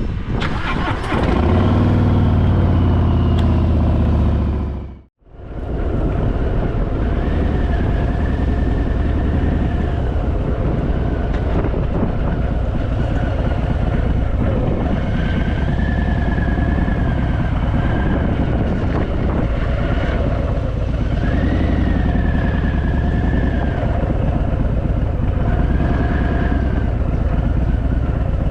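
Harley-Davidson Fat Boy's V-twin engine pulling away and revving up. After a brief cut about five seconds in, it runs on steadily under way, rising and falling in pitch several times.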